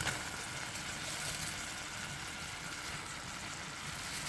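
Greens with onion and garlic sizzling in butter in a pan, a steady hiss, with a short knock right at the start.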